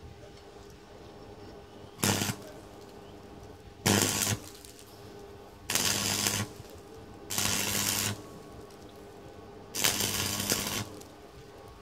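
Five short bursts of arc-welding crackle, each under a second, with a low electrical buzz from the welder under each burst: tack welds on a motorcycle exhaust pipe.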